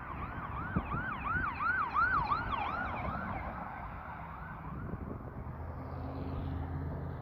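Police car siren in a fast yelp, about three rising-and-falling wails a second, as the car speeds past. It fades out about halfway through, leaving steady street traffic noise with a low engine hum.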